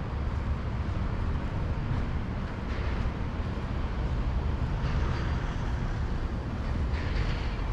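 Steady low rumble of road traffic, with faint swells of tyre hiss now and then.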